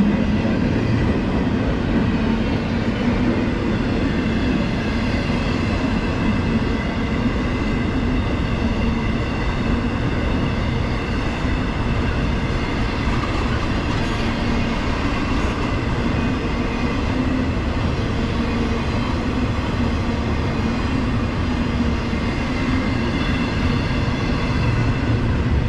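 CSX intermodal freight train rolling past, its steel wheels running steadily on the rails.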